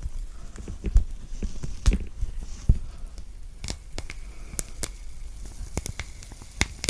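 Thick orange peel being pulled and torn off the fruit by hand, close to the microphone: irregular crackling snaps and tearing, with a few soft low thumps in the first few seconds from handling the orange.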